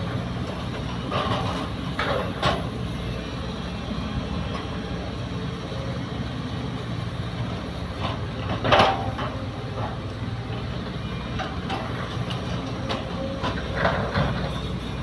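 Heavy diesel machinery of an excavator loading a dump truck, running with a steady low drone. A few short, louder clattering bursts cut in, the loudest about nine seconds in.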